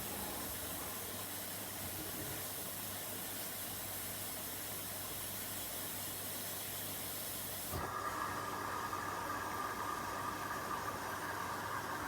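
Washing machine taking in water: a steady hissing rush of water through the inlet and detergent drawer. About eight seconds in the sound changes suddenly to a different, slightly louder rush, as when the fill switches to another inlet valve.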